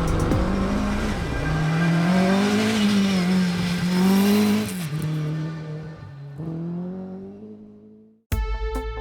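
A rally car's engine revving hard, its pitch rising and falling with the throttle, then fading away as the car drives off. It cuts to silence about eight seconds in, and music starts just before the end.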